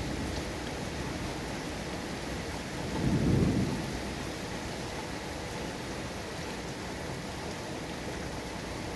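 Steady heavy rain falling, with a brief low rumble swelling up about three seconds in.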